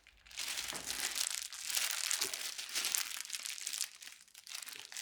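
Packaging crinkling and rustling as a tool is taken out of a dent repair kit, dense and crackly for about four seconds, then dying down near the end.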